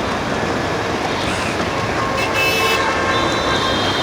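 Freight train passing, a loud steady noise of the train running by. About two seconds in, a short high-pitched horn toot sounds over it for about half a second.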